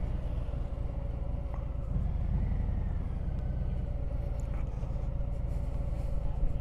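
Harley-Davidson motorcycle running at a steady, even speed, its engine and road noise low and unchanging.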